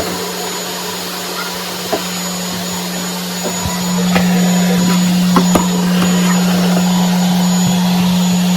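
A vacuum cleaner running with a steady hum and hiss, getting louder about four seconds in, with a few small clicks and knocks.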